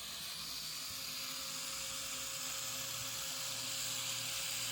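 Electric tattoo machine running steadily, a continuous buzz while the needle works the skin.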